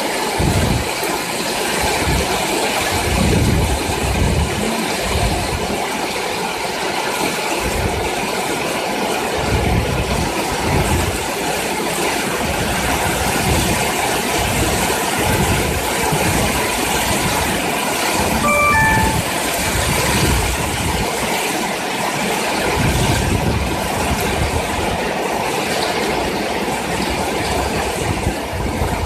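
Storm wind gusting hard, buffeting the microphone with irregular heavy low rumbles over a steady rush. About two-thirds of the way through, a quick run of five short tones stepping in pitch sounds briefly.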